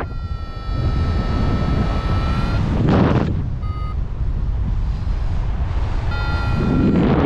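Wind buffeting the microphone, over the electronic beep of a paragliding variometer. There is one long tone that lifts slightly in pitch at its end, a short beep about three and a half seconds in, and another tone of about a second near the end.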